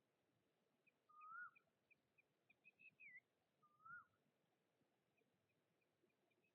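A bird calling faintly: a run of short high pips ending in a falling note, and lower slurred whistles that rise and drop, about a second in and again about four seconds in.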